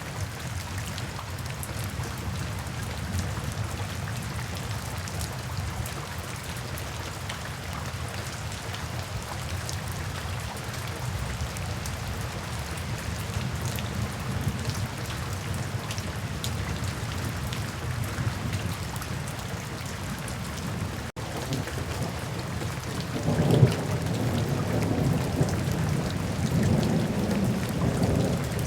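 Steady rain falling, with a low rumble of thunder rolling in near the end and running on.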